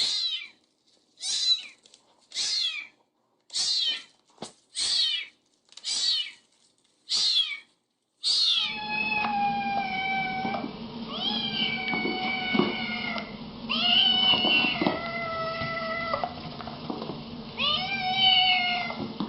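Domestic cats meowing. First comes a series of short, high-pitched mews, each falling in pitch, about one a second. Then, after an abrupt change in the recording, longer held meows overlap over a steady low hum.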